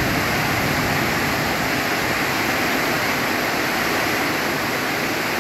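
Heavy rain pouring down in a steady, strong downpour.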